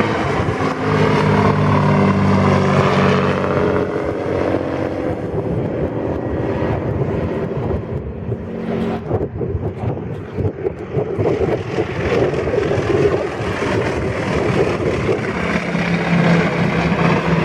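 A piston engine running loudly, its note steady for the first few seconds and again near the end, with rougher, noisier running in between.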